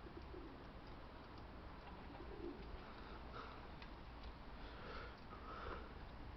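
Pigeons cooing faintly, a few soft low coos, over a steady low background rumble.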